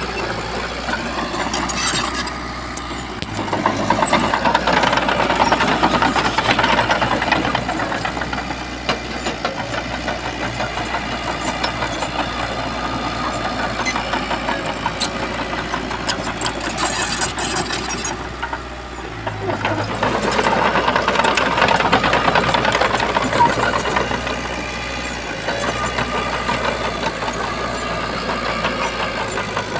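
Shantui bulldozer's diesel engine running steadily. It grows louder for a few seconds twice, about four seconds in and again around twenty seconds in.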